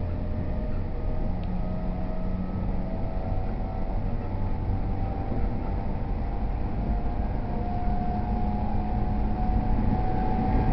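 E231 series commuter train running, heard from inside the carriage: a steady rumble of wheels on track with the traction motors' whine gliding slowly upward in pitch as the train gathers speed.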